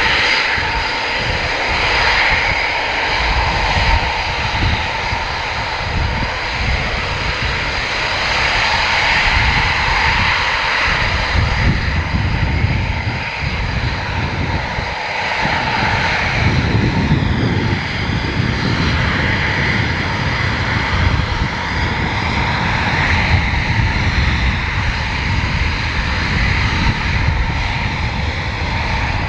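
Military fighter jet engines running loudly and steadily: a high whine over a deep rumbling roar, swelling and easing slowly.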